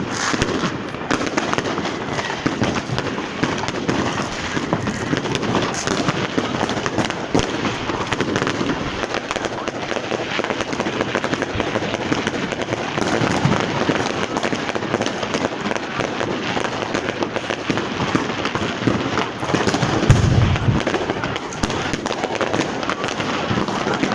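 Dense, continuous crackle of many firecrackers and fireworks going off in quick succession, with one louder, deeper bang about twenty seconds in.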